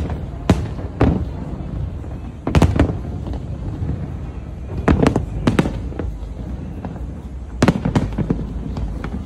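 Aerial fireworks shells bursting: sharp booms in pairs or small clusters every two to three seconds, over a steady low rumble.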